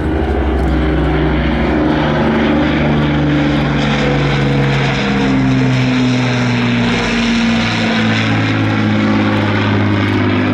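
Avro Lancaster bomber's four Rolls-Royce Merlin piston engines running loud and steady as it flies past. Several engine tones slowly drift and beat against each other.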